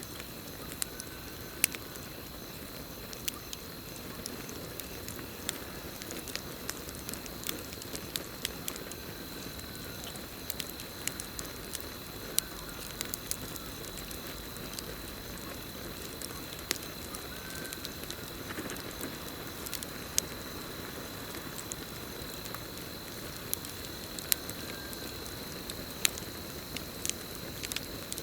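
Campfire crackling, with sharp pops scattered irregularly over a steady low rush of burning wood, and crickets trilling in one steady high tone behind it.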